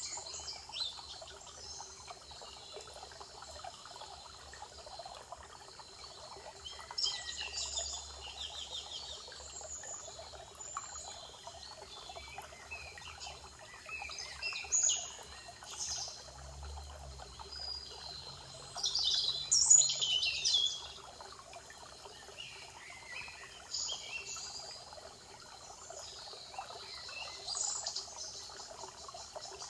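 Songbirds singing in a spring forest, short phrases of song coming every few seconds, the loudest about two-thirds of the way through, over a steady background hiss.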